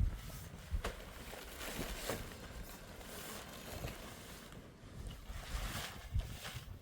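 Wind gusting against the microphone in a storm, an uneven rumble with a hiss over it, broken by a couple of sharp knocks about one and two seconds in.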